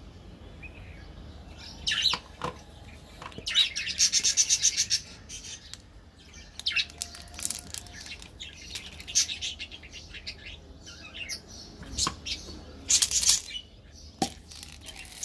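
Small birds chirping in bouts of quick, high, repeated chirps, the loudest sounds throughout. A couple of short soft knocks come near the end, from candy packets being handled.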